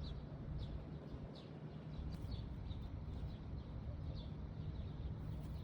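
A bird chirping over and over, short high notes that fall in pitch, about two a second, over a steady low rumble.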